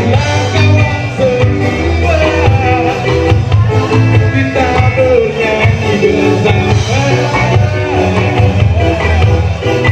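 A band playing a rock song with a singer's voice over it, steady bass and drums underneath.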